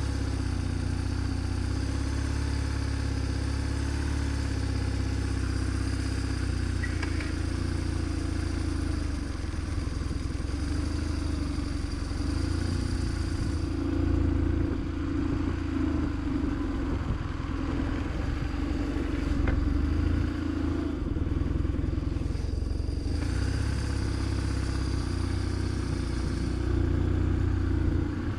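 BMW GS motorcycle being ridden, its engine running at a fairly steady pitch, with small changes in load now and then.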